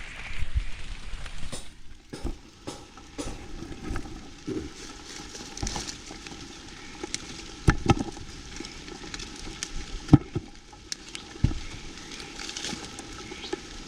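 Crackling rustle of rambutan tree leaves and twigs being handled, with scattered snaps and knocks as fruit clusters are picked.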